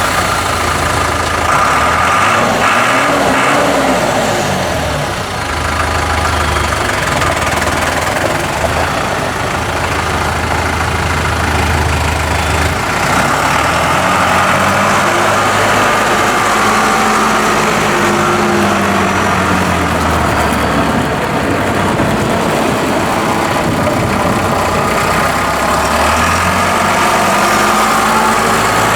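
John Deere 5520's four-cylinder diesel engine idling steadily.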